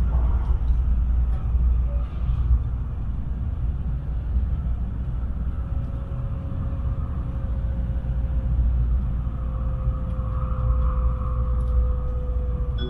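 Tokaido Shinkansen train running at speed, heard inside the passenger cabin: a steady low rumble of the ride with a faint hum that drifts slightly lower in pitch.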